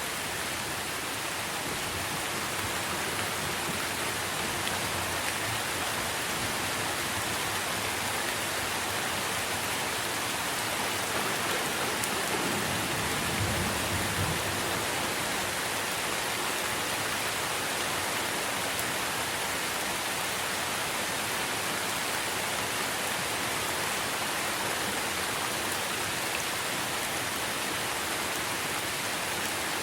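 Steady heavy rain falling on tree leaves, with a brief low thunder rumble about halfway through.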